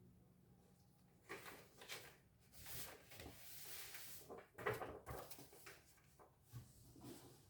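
Faint rustles and soft knocks of handling in a pause in lute playing, with no notes sounding.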